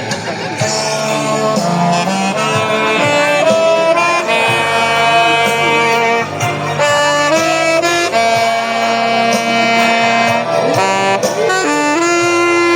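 Saxophone playing a melody of held notes, changing pitch about once a second, over a lower sustained accompaniment.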